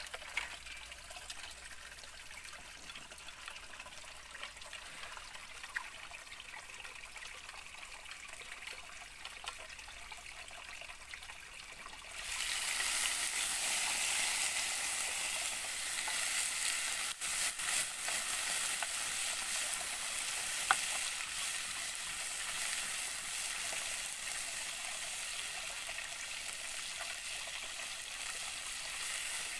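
Frog meat frying in a black pan over a wood fire and stirred with chopsticks: a light sizzle with small crackles, then about twelve seconds in a sudden, much louder sizzle as flames flare up around the pan, which goes on steadily.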